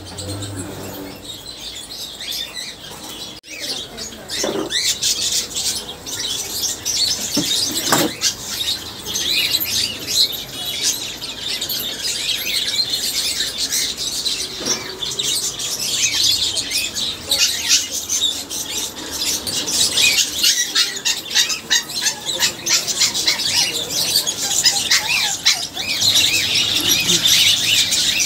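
Many small caged birds chirping and chattering together, a dense stream of overlapping high-pitched calls that grows louder a few seconds in.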